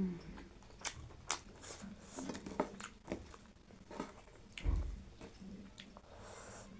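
Close-miked eating sounds: a person chewing food, with sharp wet mouth clicks and smacks at irregular intervals.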